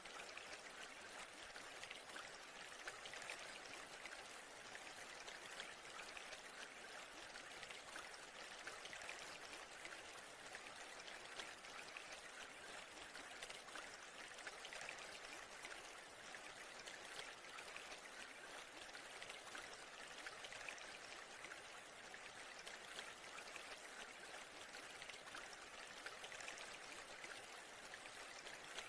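Faint, steady splashing of flowing water.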